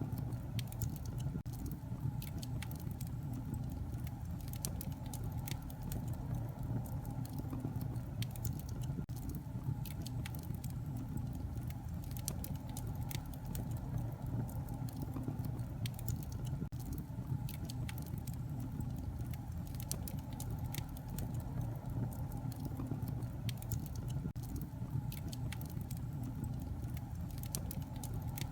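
Wood fire crackling in a fireplace: a steady low rumble of flames with frequent small sharp pops and snaps scattered irregularly throughout.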